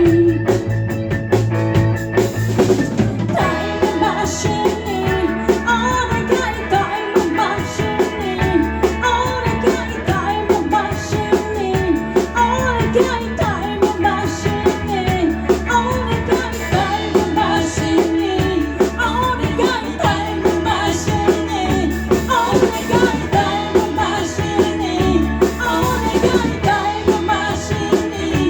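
Live band playing an up-tempo rock-and-roll number, with a drum kit, guitar and a singing voice.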